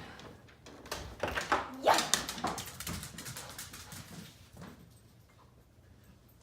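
Pit bull whining, with a rising whine about two seconds in, amid quick clicks and scuffles. It fades out over the last second or two.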